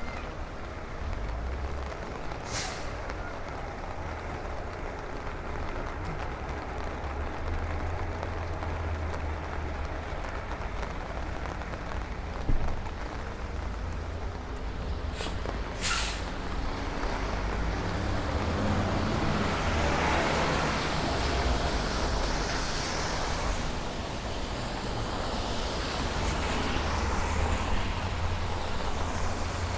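Traffic on a wet city avenue in the rain: a steady hiss of tyres and engine rumble, with a vehicle passing and swelling louder around twenty seconds in. Three brief high hisses, the first near the start and two close together in the middle.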